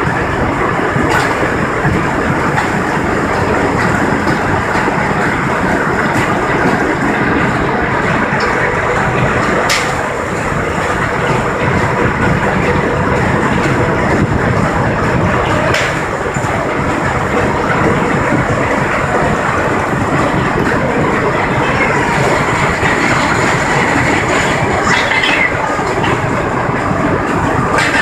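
Sawmill machinery running with a loud, steady clatter and rattle. A few sharp knocks stand out: near the start, about ten seconds in, about sixteen seconds in, and again near the end.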